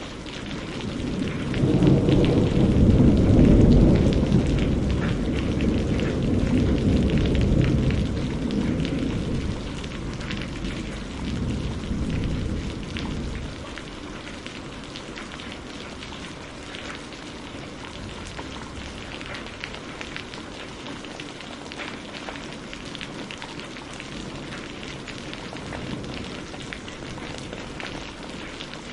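Steady rain with pattering drops, and a long roll of thunder that builds about a second in, is loudest a few seconds later and dies away by about halfway through, leaving the rain alone.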